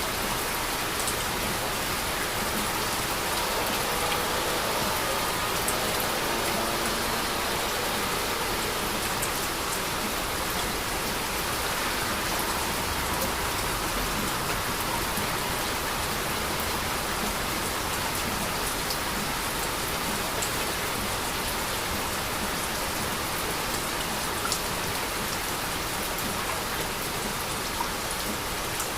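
Heavy rain falling steadily, with scattered sharper drop ticks in the steady hiss.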